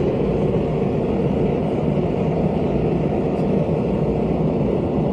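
Gas forge burner running with a steady, even roar of burning gas and air, its gas nearly fully open and its air intake open fully.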